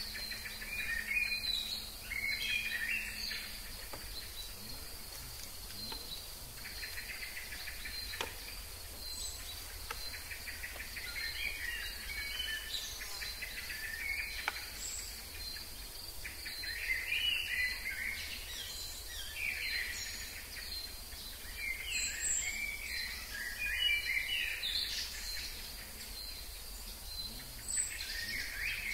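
Several birds singing and calling in short, scattered chirping phrases over a steady high insect buzz.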